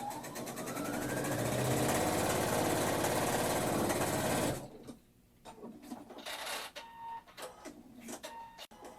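Electric sewing machine running as quilt pieces are stitched: the motor speeds up to a fast, steady run and stops suddenly about four and a half seconds in. Short clicks and rustling follow.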